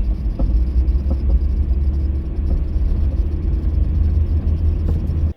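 A small train passing close by, a loud steady low rumble with a few faint clicks. It cuts off suddenly at the end.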